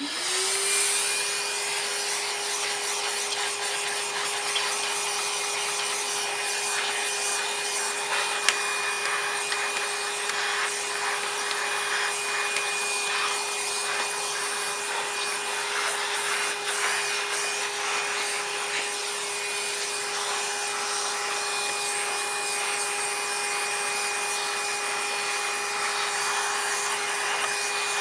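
Vacuum cleaner switched on, its motor whine rising within a second to a steady pitch and then running steadily with a rush of air. The nozzle sucks up the dust caked inside an old Hoover's motor housing and rubs over the surfaces.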